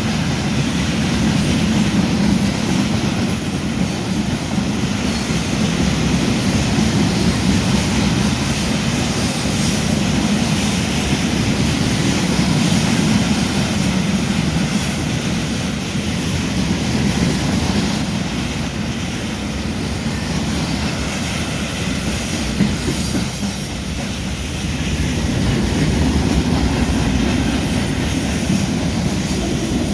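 Freight train wagons rolling past at speed, a steady loud rumble with wheels clattering over the rails. A thin high wheel squeal sounds for a few seconds near the start.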